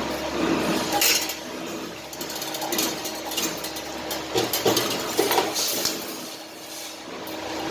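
CNC 2D wire bending machine running. A steady motor hum sits under irregular metallic clicks and clanks as the machine bends the wire.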